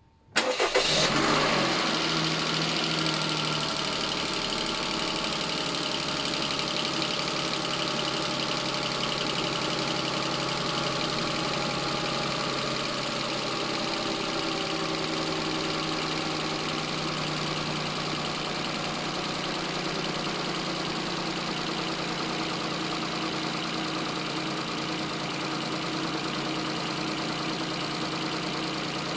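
Toyota 1KR three-cylinder petrol engine starting about half a second in, running briefly at a raised idle that settles over the first few seconds, then idling steadily. Its running carries knocks that the owner holds to be normal for this engine.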